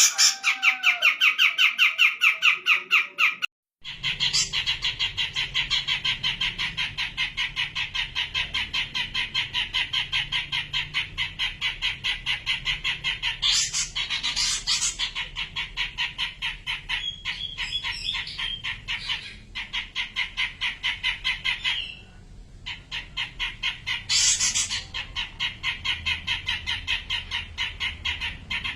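Cucak jenggot (grey-cheeked bulbul) giving a long, fast, even run of repeated chattering notes, broken by a brief gap near the start and a short dip about two-thirds of the way through.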